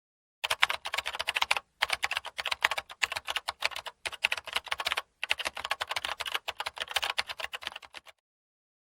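Rapid typing on a computer keyboard: fast runs of key clicks broken by three short pauses, stopping about eight seconds in.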